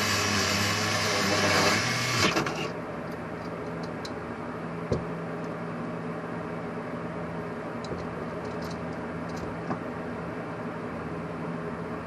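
Power drill spinning a cylinder hone in a two-stroke motorcycle cylinder bore, a loud whirring grind that stops abruptly about two seconds in; this is the honing stage that leaves the cross-hatch pattern on the bore walls. After it, a steady low machine hum remains, with a light knock about five seconds in and a few faint clicks.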